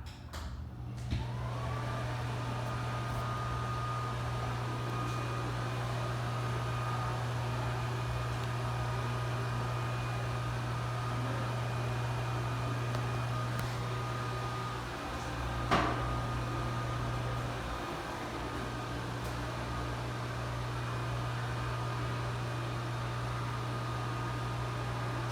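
NuTone Heat-a-vent-lite bathroom exhaust fan (70 CFM, rated 4.0 sones) switched on with a click about a second in, its motor whine rising quickly to a steady pitch and running over a steady hum, kind of loud. A sharp click sounds near the middle, and the whine falls away at the very end as the fan shuts off.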